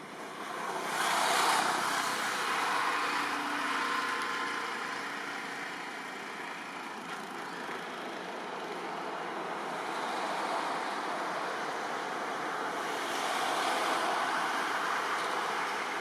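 Road traffic: the steady rush of vehicles going by, swelling about a second in and again near the end as vehicles pass.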